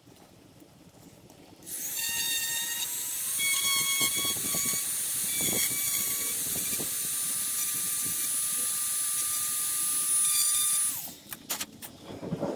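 Dremel rotary tool with a wood bit running at high speed, hollowing out a cork stopper. It starts about two seconds in, runs steadily for about nine seconds with a high whine, then stops, followed by a few clicks.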